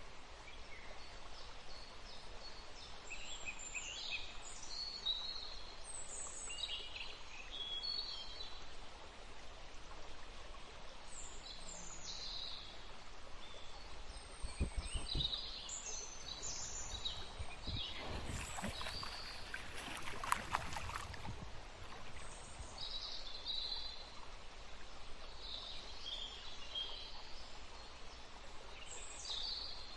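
Birds singing outdoors: many short chirps and trills, over a steady background hiss. A few seconds of crackling and knocking come in just past the middle.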